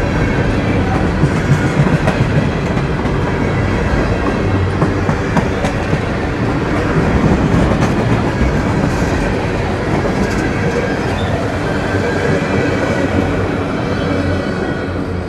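Norfolk Southern freight train cars rolling past on the main line: a steady, loud rail rumble with wheel clatter and scattered sharp clicks, easing off slightly near the end.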